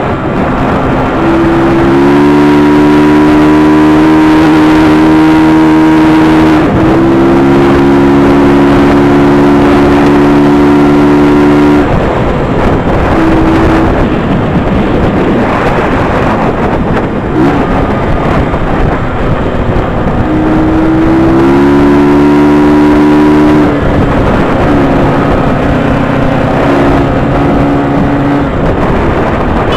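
Sport motorcycle engine pulled hard under acceleration: the revs climb and hold high, with a gear change about seven seconds in. Around twelve seconds in the engine tone gives way to a steady rush of noise, and it pulls hard again from about twenty seconds in before easing off.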